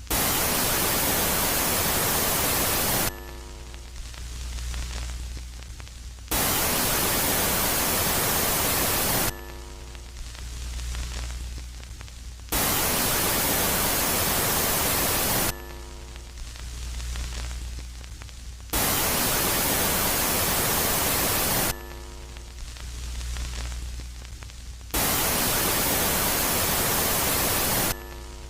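Space-sound track presented as Jupiter's moon Megaclite, switching between a loud phase of even static hiss and a quiet phase of faint steady tones over a low hum. Each phase lasts about three seconds, so a burst of hiss comes back about every six seconds, five times in all.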